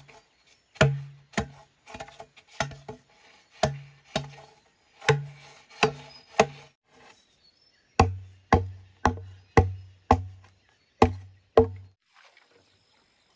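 Repeated hard chopping strikes on wood or bamboo, each with a short hollow note: a first irregular run, then after a brief pause a steadier run of about two blows a second with a lower note, stopping near the end.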